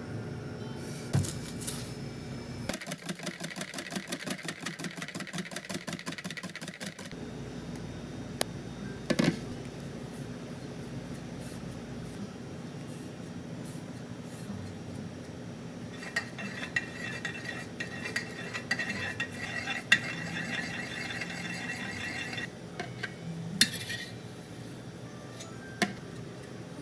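Kitchen work sounds: dishes and metal utensils clinking, with sharp knocks now and then and two long stretches of fast, rhythmic strokes, like stirring in a bowl.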